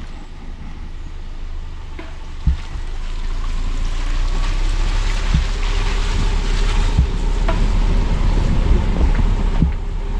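Car driving: a steady low road rumble with a hiss that grows after about three seconds, and a few short bumps, the loudest about two and a half seconds in.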